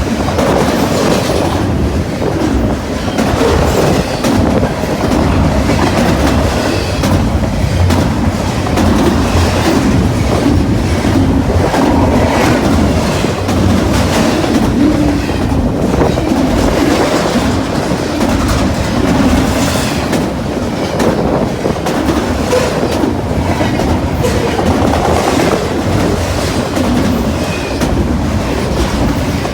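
Intermodal freight cars rolling past at high speed, steel wheels clattering over the rail joints in a continuous rush, with wind buffeting the microphone.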